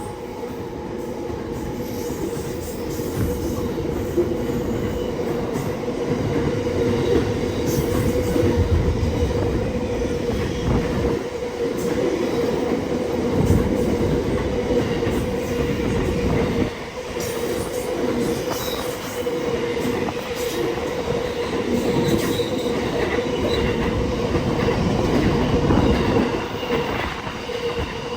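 Freight train wagons rolling past at speed: a steady wheel squeal over a continuous rumble and rattle of wheels on rail.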